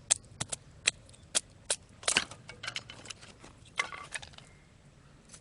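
Batoning firewood: a wooden baton knocking on the spine of a knife driven into a piece of wood, in sharp knocks two or three a second. The wood cracks and splinters as it splits, about two seconds in and again near four seconds.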